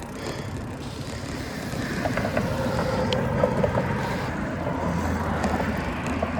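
Steady wind and road noise while riding a bicycle, getting a little louder about two seconds in.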